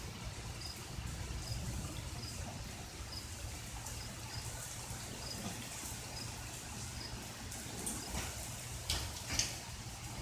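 Rainwater trickling and dripping, with a cricket chirping in short, evenly spaced chirps a little under twice a second. A couple of sharper drips or clicks stand out near the end.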